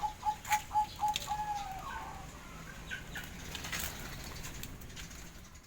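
Zebra dove (perkutut) cooing: a quick run of short, evenly spaced notes that ends about two seconds in with a longer falling note, with scattered sharp clicks and knocks around it.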